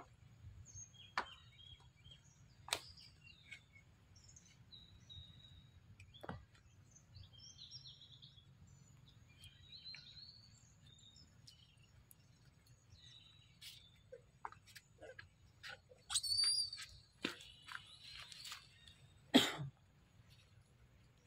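Faint outdoor ambience of small birds chirping and tweeting on and off, with a few sharp clicks, a louder high call about three-quarters of the way in, and one brief thump near the end.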